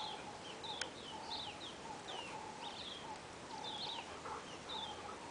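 Birds calling in the background: short high chirps repeating about twice a second, over a faint steady tone and outdoor hiss.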